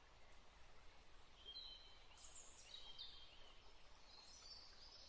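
Faint birdsong: several high chirps and short falling whistled phrases, starting about a second and a half in and again near the end, over a quiet background hiss.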